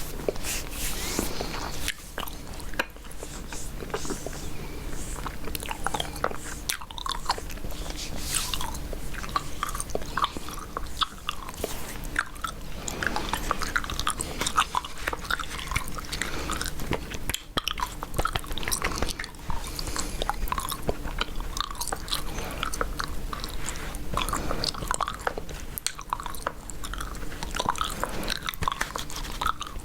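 Close-miked gum chewing: continuous, irregular wet smacks and small clicks of a mouth working a piece of chewing gum.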